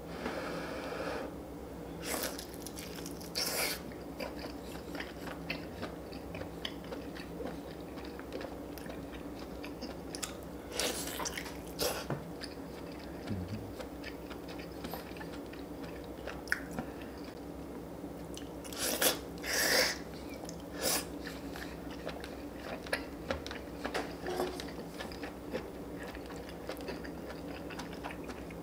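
Close-miked chewing and biting of food, with a few louder, crunchy bites scattered through it.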